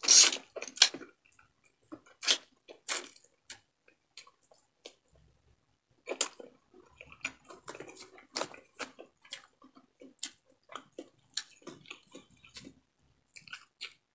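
A person chewing frog meat and rice: a run of irregular wet mouth clicks and smacks, loudest in the first second as the bite is taken.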